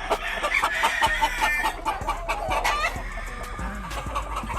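A flock of farmyard chickens clucking and calling, with a rooster crowing. The calls are busiest in the first three seconds and ease off near the end.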